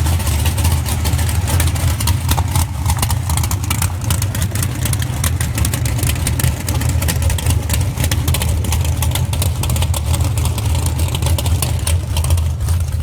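Street-race car engine idling steadily with a deep, even rumble and a dense scatter of sharp ticks over it.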